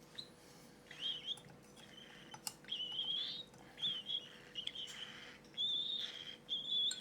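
Cockatiel chicks giving raspy, wheezy food-begging cries during hand-feeding, about eight short calls in a row with gaps between them. Some calls rise slightly in pitch.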